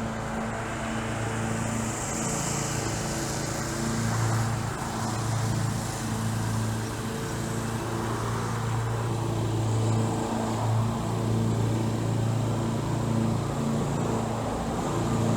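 The 2019 Ford Escape's 2.0-litre turbocharged four-cylinder EcoBoost engine running steadily with an even hum.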